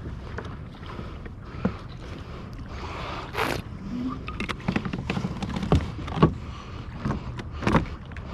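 Kayak on open water: a steady wash of water against the hull, with irregular sharp knocks and clicks from the hull and gear, and one longer splash-like swell about three and a half seconds in.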